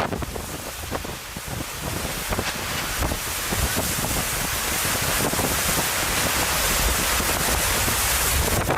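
Hurricane wind and rain rushing loudly, the gusts buffeting the microphone, with many small knocks and crackles.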